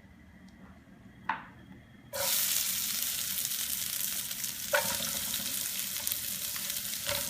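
Onions dropped into hot vegetable oil in a pan, starting to sizzle suddenly about two seconds in and then sizzling loudly and steadily. A single knock comes just before, and two more as the onions are stirred, from a utensil against the pan.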